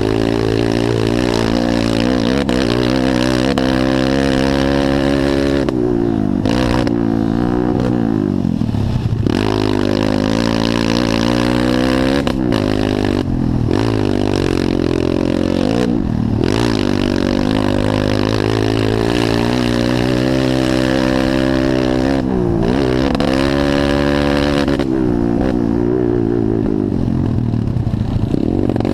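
Pit bike engines racing, revving up and down through the gears so that the pitch climbs and drops every few seconds.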